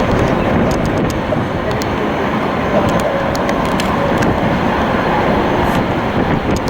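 Jet airliner engines at an airport: a loud, steady roar with a faint steady whine and scattered crackle.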